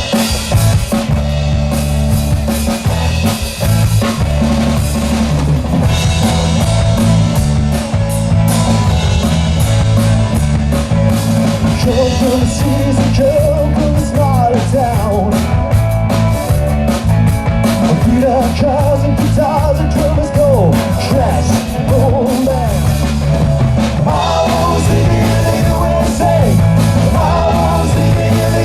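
Loud rock music: a full band with drum kit, bass and electric guitar playing an instrumental stretch with a steady beat.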